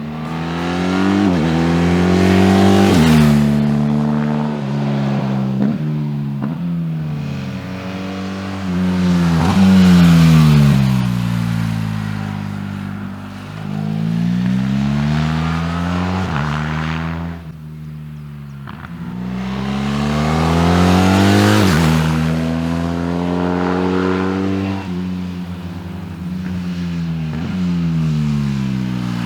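BMW R 1300 GS boxer-twin engine running through a REMUS aftermarket exhaust under way: revs climb and drop sharply with each upshift, then fall away in long decelerations, several times over.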